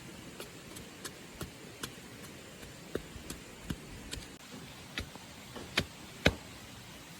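Irregular light taps and knocks, roughly one or two a second, with two louder knocks near the end.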